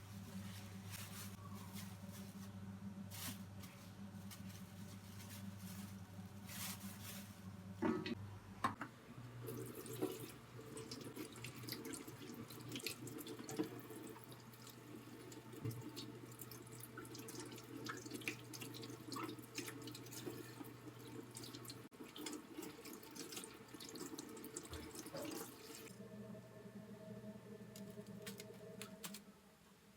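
Tap water running into a sink, with a few sharp knocks about eight seconds in and again near the middle, and a low steady hum underneath.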